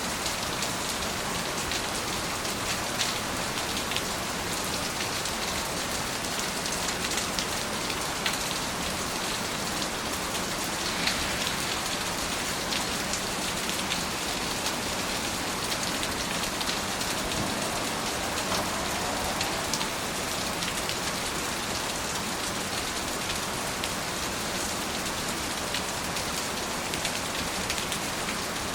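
Steady rain falling and pattering on surfaces, an even hiss full of fine drop ticks, with a few slightly louder drips now and then.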